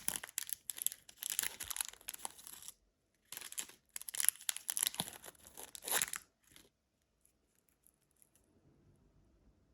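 Candy wrapper being torn open and crinkled by hand in several crackly bursts, which stop about two-thirds of the way through, leaving only a few faint ticks.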